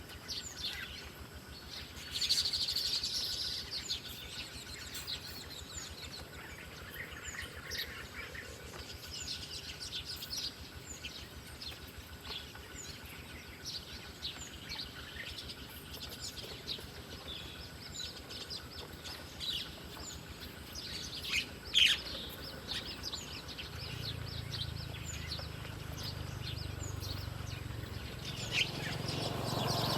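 Wild birds chirping and calling in short, high notes throughout, with a louder burst of calls about two seconds in and a sharp call about three-quarters of the way through. A steady low hum comes in near the end.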